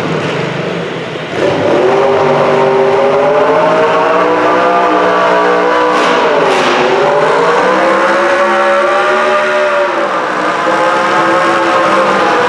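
Modified pulling garden tractor's engine running hard at high revs under load, its pitch sagging about six seconds in as the load bites, then climbing back.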